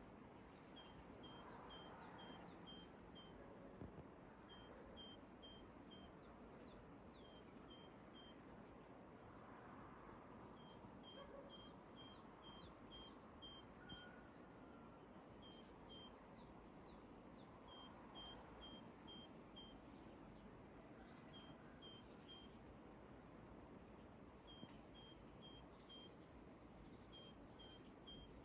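Faint dawn birdsong: a bird repeating short, high notes at two alternating pitches in runs of four or five, every couple of seconds, over a steady high-pitched insect drone.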